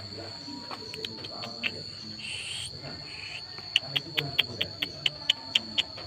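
Birds calling: a quick run of about eight sharp chirps, about four a second, in the second half, over a steady high-pitched whine.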